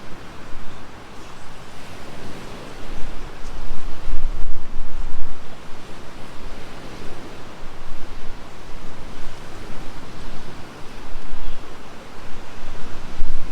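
Strong gusting wind buffeting the microphone: a steady rush of noise with a heavy low rumble that swells and eases every few seconds.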